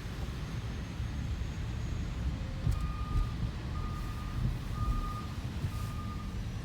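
Freightliner M2106 rear-loader recycling truck reversing: its backup alarm starts beeping about three seconds in, about once a second, over the low rumble of its diesel engine.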